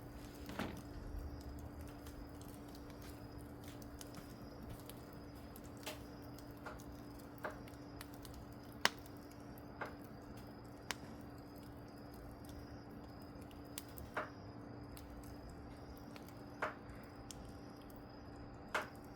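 Wood fire crackling, with about ten sharp, separate pops at irregular intervals, the loudest about nine seconds in, over a steady low hum.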